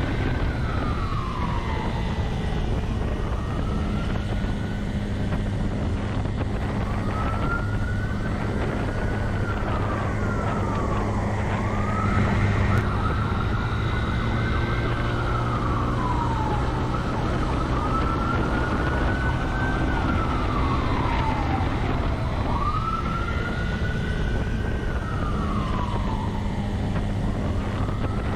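Police siren wailing, rising quickly and then sliding down about every four seconds, over the steady drone of the pursuing vehicle's engine and road noise.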